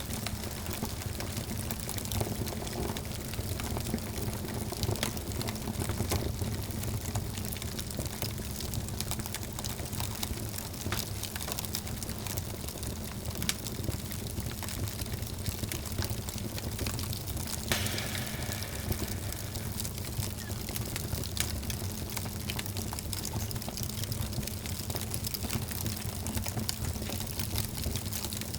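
Wood fire in a fireplace, crackling with frequent small pops over a low steady rumble of flames, with one sharper pop about eighteen seconds in.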